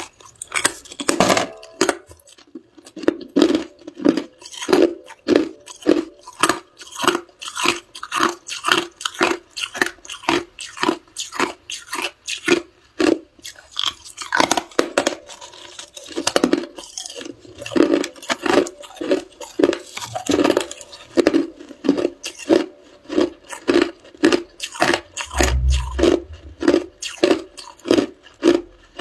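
A person chewing ice, a steady run of sharp crunches at about two to three bites a second. There is one low bump about 25 seconds in.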